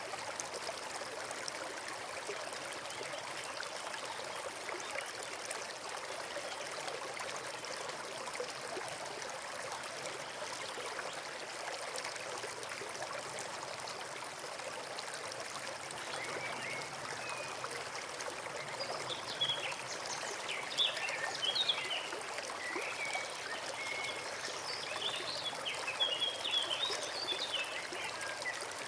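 Forest brook flowing and trickling steadily. About two thirds of the way in, small birds start chirping and twittering over the water.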